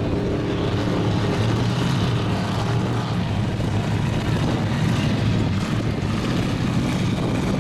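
Mud truck engine running steadily, a low even drone.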